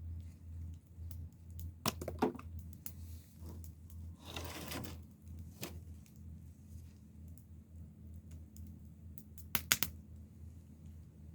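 Wood fire crackling, with irregular small pops and a few louder snaps about two seconds in and near the end, and a brief rustle around the middle.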